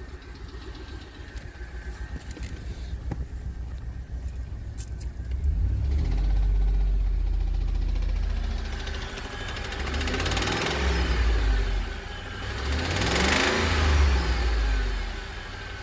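Warm Ford F-150 4.6-liter V8 idling with a knock, then revved three times, about five, ten and thirteen seconds in, settling back to idle after each. The knock comes from the left side of the engine, only appears once the engine is warm, and is loudest on accelerating; its cause is unknown to the owner.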